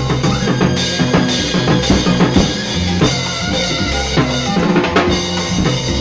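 Latin rumba band music: a steady, driving drum and percussion beat with bass and sustained melodic instruments over it.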